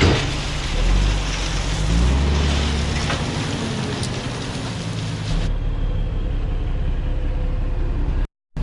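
Heavy diesel engine of earthmoving equipment running under load, its pitch rising briefly about two seconds in. The sound changes abruptly about five and a half seconds in.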